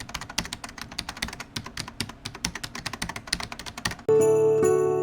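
Rapid keyboard typing, many quick clicks a second. About four seconds in it gives way abruptly to louder music with bright bell-like chimes.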